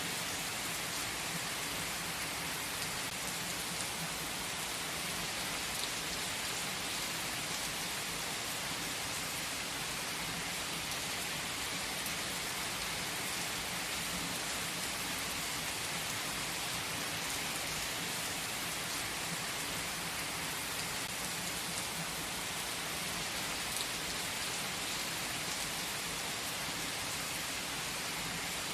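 A steady, even hiss of rain-like noise with faint scattered ticks.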